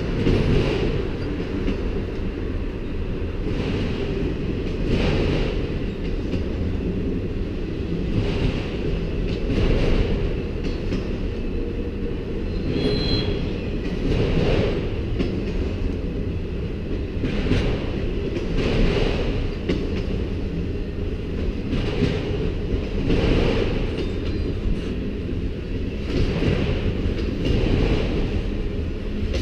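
Freight train cars rolling past at speed: a steady rumble with wheels clicking over the track every second or so. A brief faint wheel squeal is heard about halfway through.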